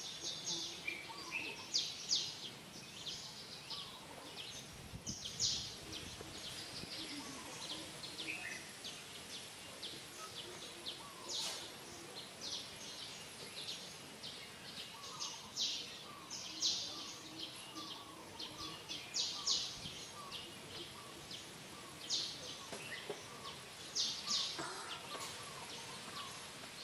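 Outdoor ambience with small birds chirping: short high chirps every second or so, in loose clusters, over a faint steady background.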